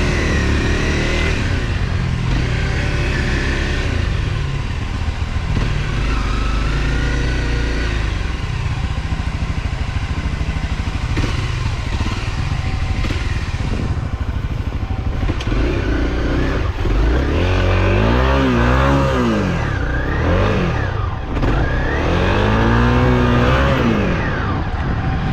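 Off-road motorcycle engine running and being revved again and again, its pitch rising and falling, with a run of harder revs in the second half.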